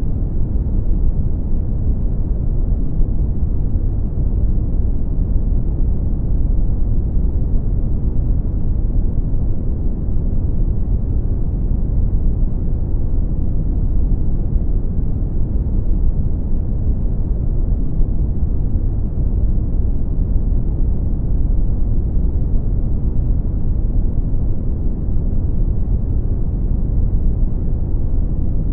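Brown noise: a steady, deep hiss with most of its energy in the low end and little above the midrange, unchanging throughout.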